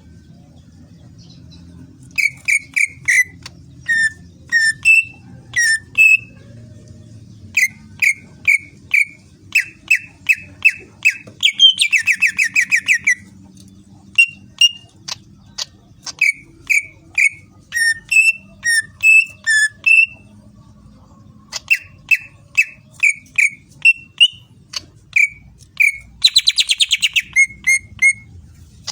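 Green leafbird (cucak ijo) singing: runs of short, clear whistled notes, each slurring downward, broken by brief pauses, with a rapid buzzy trill about twelve seconds in and again near the end.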